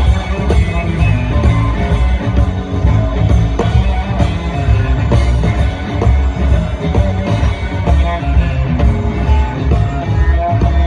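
Live blues band playing an instrumental passage: electric guitar over bass and drums, with a steady beat.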